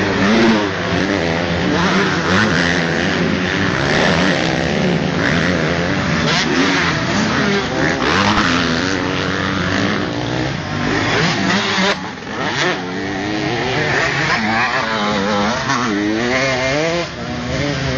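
Several motocross dirt bike engines revving hard, their pitches rising and falling over one another as the bikes accelerate and shift on the track, with a brief drop in level about two-thirds of the way through.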